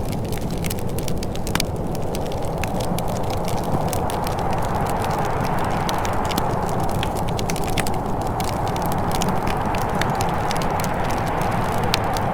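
Fireplace crackling: irregular sharp pops and snaps over a steady low rushing bed of sound.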